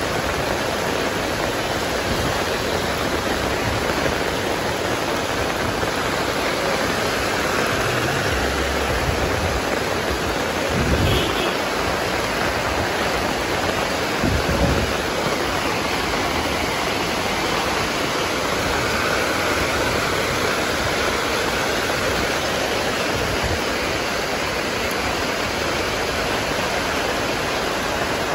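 Heavy rain pouring down on a street, a steady hiss, with two short louder moments about eleven and fourteen seconds in.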